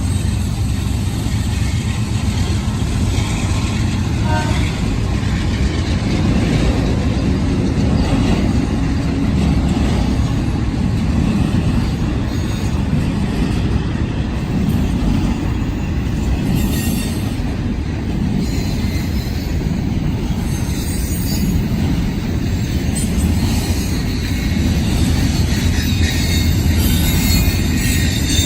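Intermodal freight train rolling past, a steady low rumble of steel wheels on the rails.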